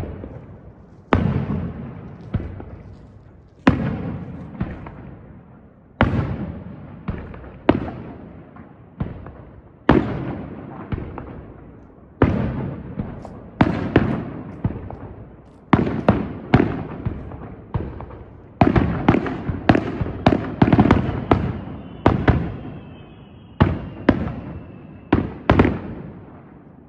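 Aerial firework shells bursting, each sharp bang followed by a rolling, echoing tail. The bangs come every second or two, then crowd together into a rapid volley near the end, with a faint whistle during the volley.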